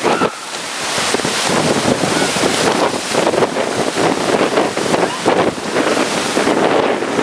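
Hurricane Sandy's strong gusting wind buffeting the microphone: a dense rushing noise that surges and dips with the gusts.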